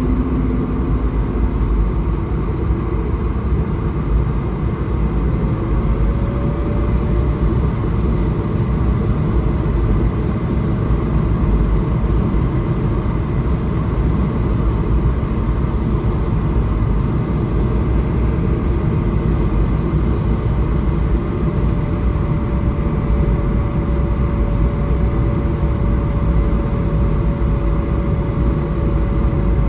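Airliner cabin noise inside an Airbus A220-300 in flight: a steady rush of airflow over a low rumble from its Pratt & Whitney PW1500G geared turbofan engines. A faint engine tone rises slightly about six seconds in and then holds.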